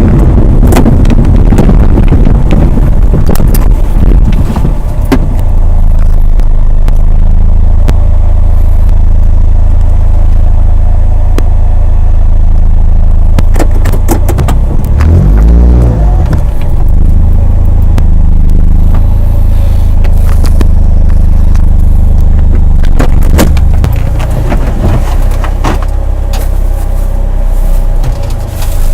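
A vehicle's engine and road noise heard from inside the cabin while driving: a loud, steady low drone with scattered clicks and rattles. The engine pitch rises and falls briefly about halfway through.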